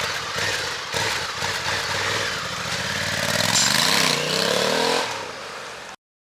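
Honda Africa Twin 1100's parallel-twin engine running through its stock exhaust, revved so the pitch rises and falls over a couple of seconds; the sound cuts off abruptly near the end.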